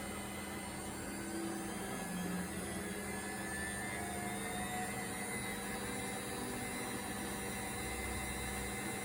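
Indesit front-loading washing machine on its spin cycle, the drum spinning with a steady whir and hum. There is no rumble or grinding, a sign the drum bearing is sound.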